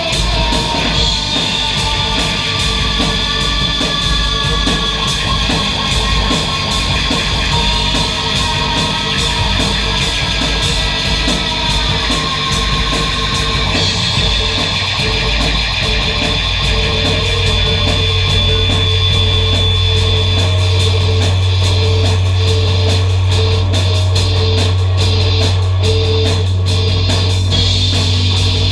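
Loud, dense noise music: a continuous wall of distorted sound with held tones and some downward-gliding pitches. A deep, steady low drone comes in about halfway through and raises the overall level.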